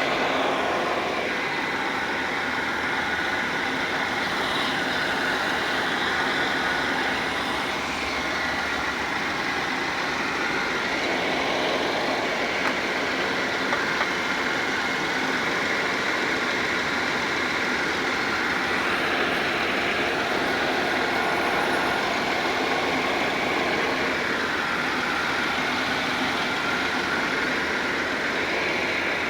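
Car engine idling steadily with the air conditioning running on max, full blast, while refrigerant is charged into the AC system's low side.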